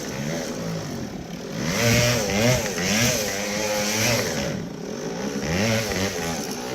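Small two-stroke moped engine revving up and down repeatedly, its pitch rising and falling several times, loudest about two seconds in.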